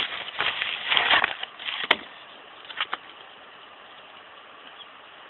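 Rustling and handling of packaging, then one sharp click and two small ticks, then only faint hiss.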